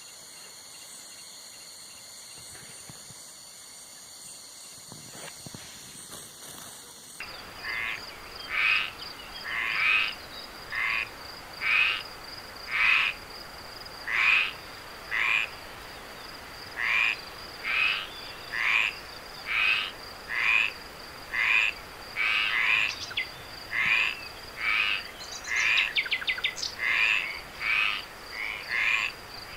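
Steady high insect trilling, then about seven seconds in an abrupt switch to a frog croaking over and over, roughly once a second, with a steady high insect tone underneath.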